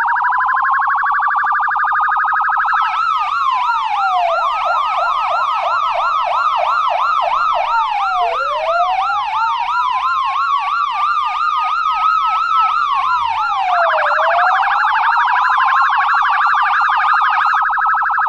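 US police car electronic siren cycling through its tones. A slow rising wail gives way about three seconds in to a fast yelp, returns to the slow rise and fall about eight seconds in, and switches to a rapid warbling tone from about thirteen seconds.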